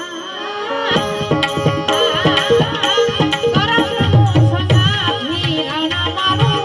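Santvani bhajan music: tabla drumming with sustained melodic lines above it. The drums come back in about a second in after a brief lull.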